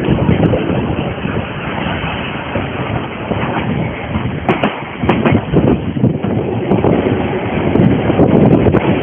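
Narrow-gauge steam train running, a steady rumble and rattle with a few sharp clicks about halfway through.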